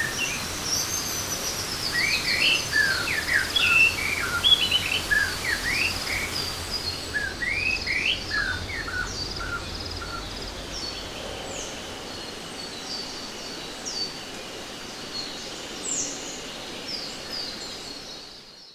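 Rainforest ambience: many birds chirping in quick, short rising and falling calls over a steady background hiss. The whole soundscape fades out gradually toward the end.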